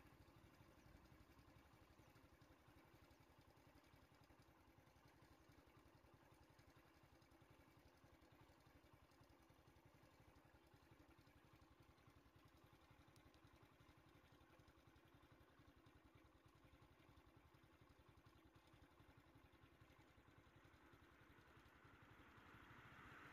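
Faint, steady engine idling, with a vehicle approaching and growing louder near the end.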